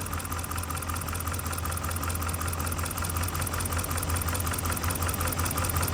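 2011 Chrysler truck's V8 engine idling with a steady, fast pulse, misfiring on one cylinder because the number 7 injector wire is unplugged.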